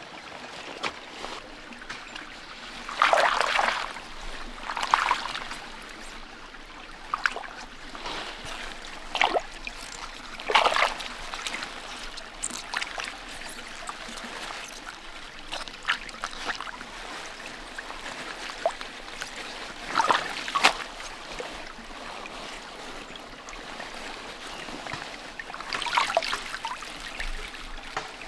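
Stream water trickling steadily, with a splash every few seconds as vegetables are rinsed in it.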